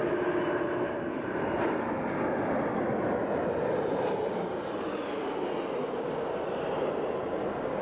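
Airbus A340 four-engined jet airliner flying past low, its engines giving a steady rushing jet noise that the commentator calls very quiet.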